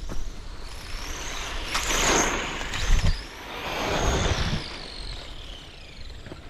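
Electric motors of Schumacher Bosscat RC buggies whining past close by twice, the pitch rising and falling with each pass over a rush of tyre noise on dirt. A loud thump comes about three seconds in.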